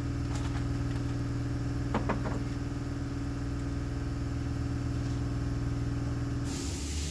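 A steady machine hum from a running motor, which stops near the end and is followed by a brief hiss.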